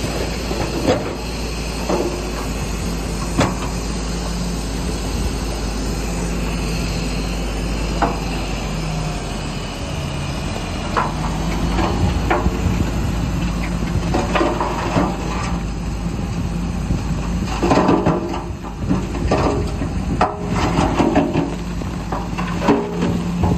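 Heavy earthmoving machinery at work: a diesel engine running steadily under repeated metallic clanks and knocks, with a denser stretch of clattering in the second half.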